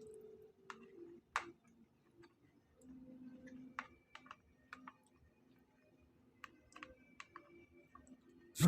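Faint, scattered light clicks and taps, a dozen or so spread irregularly, over a low steady hum, with one louder knock at the very end.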